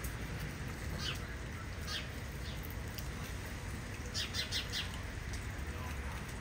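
Small birds chirping: single short chirps, then a quick run of about five chirps over a steady low rumble.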